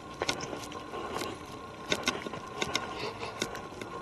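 Footsteps on a forest trail: irregular crunches and crackles of leaves and twigs underfoot.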